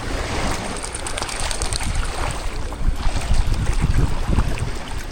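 Seawater sloshing and small waves washing around waders in the surf, with wind rumbling on the microphone.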